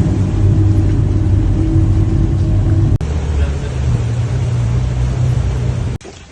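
Loud engine running steadily, a low droning hum. It cuts off abruptly about three seconds in and resumes at a slightly different pitch, then cuts off again near the end.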